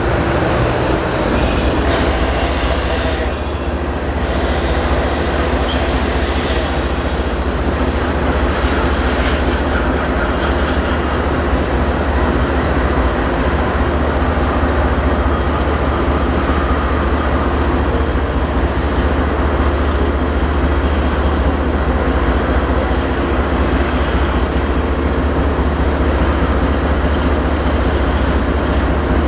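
Long BNSF intermodal freight train rolling by slowly: a steady rumble of cars on the rails, with some high wheel squeal in the first several seconds.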